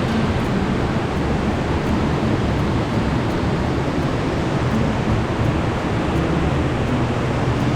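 Steady rush of water falling over a broad, sloping cascade of a waterfall: a dense, even noise with no breaks.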